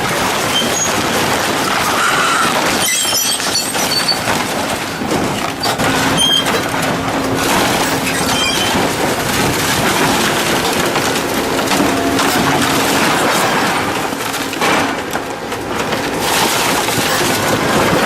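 Industrial metal shredder tearing and crushing scrap metal: a continuous loud grinding and crunching, with occasional sharp cracks and snaps.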